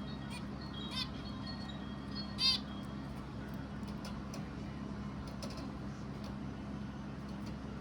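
A bird calling in short chirps: one about a second in, a louder one about two and a half seconds in, and faint high notes in between, over a steady low hum.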